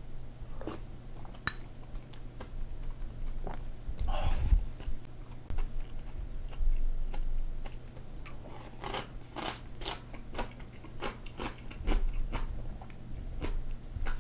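Close-miked eating: chewing of soft hand-cut noodles in perilla seed soup, then crunchy bites and chewing of a fried potato croquette from about eight seconds in. A steady low hum runs underneath.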